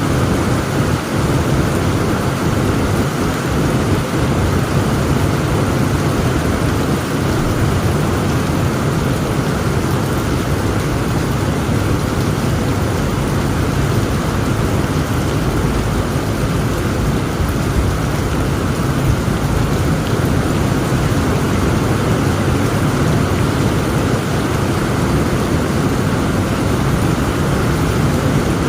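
Heavy rain falling steadily, with a low, continuous rumble of thunder underneath.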